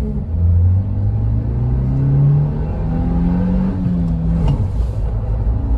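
Maruti Suzuki Jimny's 1.5-litre four-cylinder petrol engine accelerating hard, heard from inside the cabin during a timed run. The engine note climbs steadily, then drops at a gear change about four and a half seconds in.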